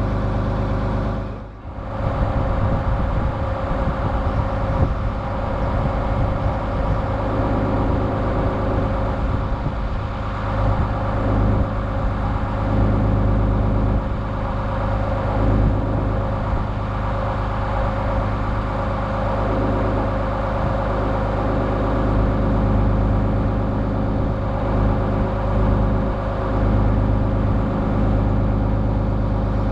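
Barge's inboard engine running steadily under way, with a brief drop in level about a second and a half in.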